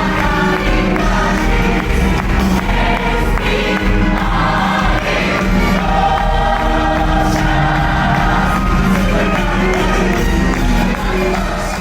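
Music with a choir singing, held chords carried by many voices.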